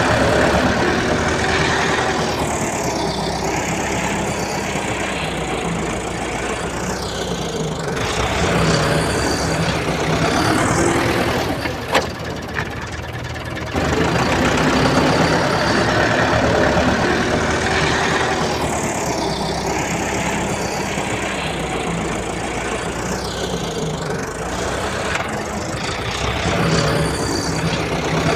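Heavy diesel engine of a backhoe loader running under load, a sound effect that seems to loop about every 16 seconds. About 12 seconds in there is a sharp click and a short, quieter dip.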